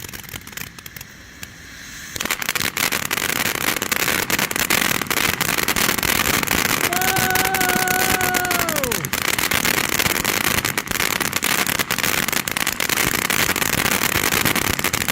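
Ground fountain firework spraying, a dense hiss full of sharp crackles that starts about two seconds in. About midway a steady pitched tone is held over it for a couple of seconds, then falls away.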